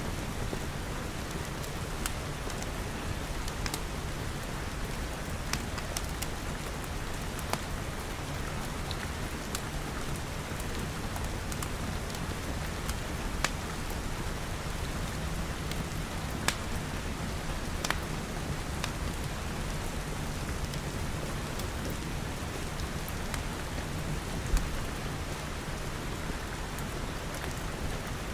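Steady rain pattering on glass walls and roof, with a steady low rumble underneath. A wood fire crackles over it with scattered sharp pops, a few louder ones standing out.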